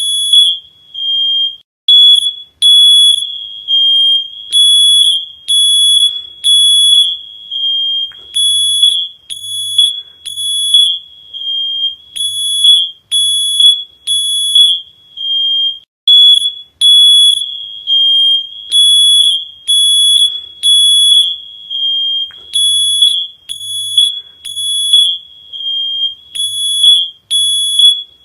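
Smoke alarm sounding: loud, high-pitched beeps repeating in clusters of about three with short pauses between.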